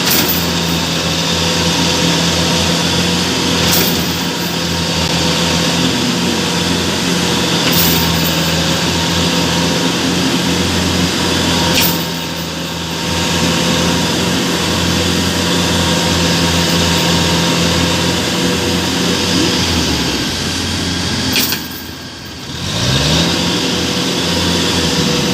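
Combine harvester diesel engines running steadily under heavy load while one harvester tows a Kubota DC-70 Plus combine stuck in the mud. The engine note dips about halfway through, then dips again near the end and revs back up.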